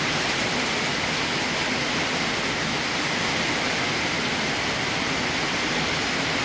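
Heavy thunderstorm rain pouring down, a steady even rushing hiss.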